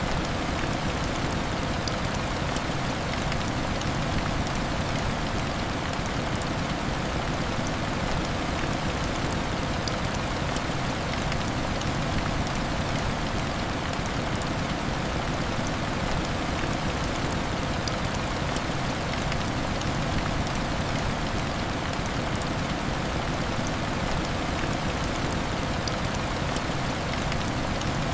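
Heavy rain falling steadily, a dense even patter of drops with many small sharp ticks.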